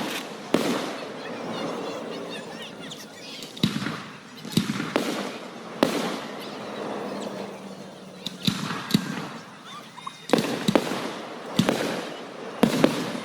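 Aerial fireworks bursting: about a dozen sharp bangs at irregular intervals, several in quick pairs, each trailing off before the next.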